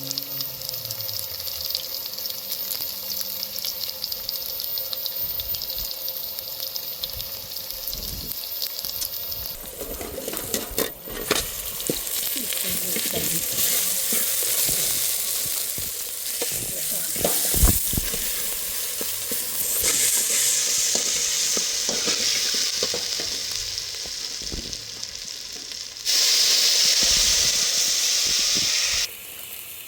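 Food sizzling as it fries in a pan, with some knocks and scraping in the middle. The sizzle changes abruptly a few times and is loudest for a few seconds near the end.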